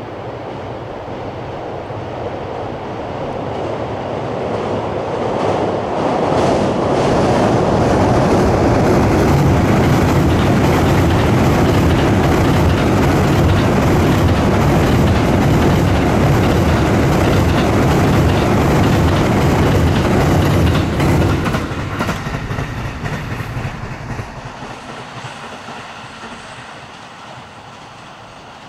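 E217-series electric commuter train passing over a steel truss bridge, its wheels and the bridge girders giving a heavy rumbling clatter. It builds as the train arrives, holds loud and steady for about fifteen seconds, then falls away and fades near the end.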